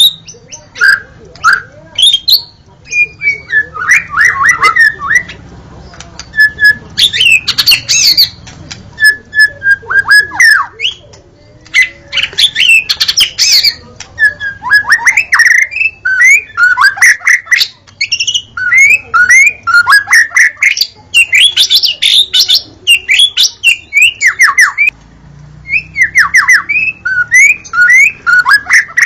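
White-rumped shama singing: rapid, varied phrases of sweeping whistles and harsh chattering notes, broken by short pauses.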